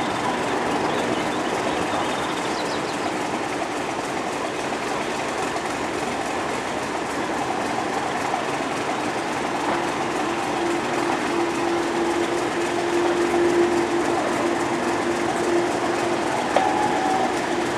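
Heritage passenger train hauled by a Class 31 diesel locomotive, heard from an open coach window: steady running noise of wheels on rail with clickety-clack. About ten seconds in, a steady high tone joins and holds to the end.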